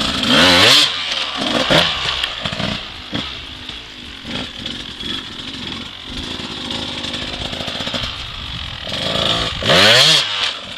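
Dirt bike engine revving: a hard rev rising in pitch just after the start and another near the end, with shorter throttle blips in between.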